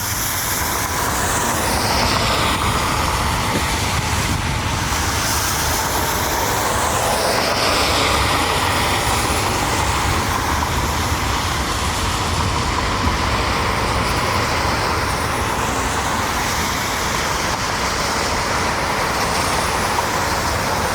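Air Wisconsin regional jet's turbofan engines at takeoff power: a steady loud roar with high whines sliding in pitch through it as the jet rolls and climbs away.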